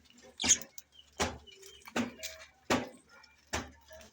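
Five sharp knocks in a steady rhythm, about three-quarters of a second apart, with faint short chirps between them.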